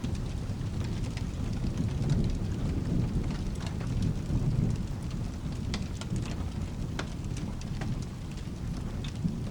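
Steady rain with a low, rolling thunder rumble that swells between about two and five seconds in, with scattered sharp clicks over it.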